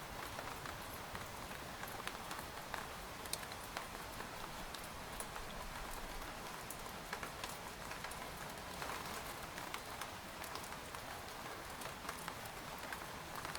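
Steady rain pattering on a tent's fabric, a continuous hiss scattered with individual drop taps.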